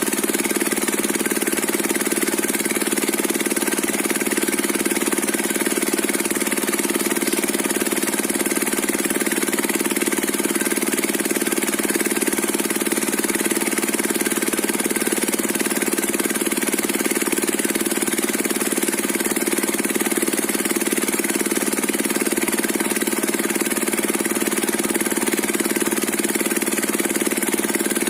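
Diesel engine driving a homemade circular saw rig, running steadily without change.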